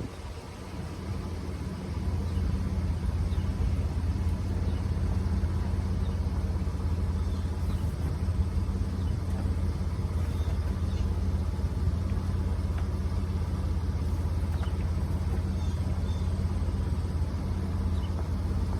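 Pickup truck driving, a steady low engine and road rumble that grows louder about two seconds in, then holds even.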